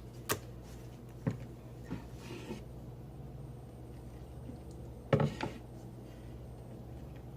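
Slime being handled, a few faint sticky clicks and pops over a steady low hum, with a brief voice sound about five seconds in.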